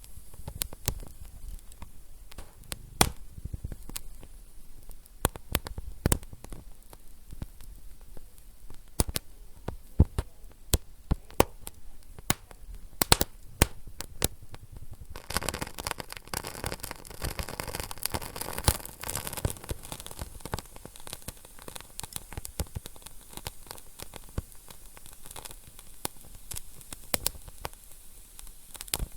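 Wood fire in a fireplace crackling, with frequent sharp, irregular pops. About halfway through, a steady hiss joins the crackle.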